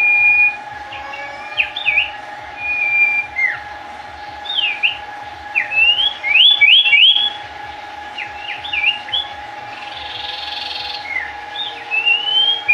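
Songbird singing energetically, a run of clear whistled notes that sweep sharply up and down, mixed with a few longer held whistles, over a steady background hum. A few clicks sound about halfway through.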